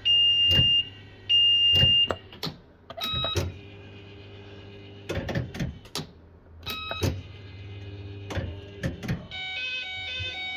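Bell-Fruit FireCracker fruit machine in play: three long, loud high-pitched electronic beeps in the first two seconds, then sharp clunks and short chimes as the game runs, and an electronic bleeping tune starting near the end.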